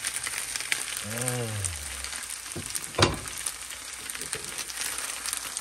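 Fried rice with freshly added chopped tomatoes, peppers and onions sizzling steadily in a frying pan. A single sharp knock about three seconds in.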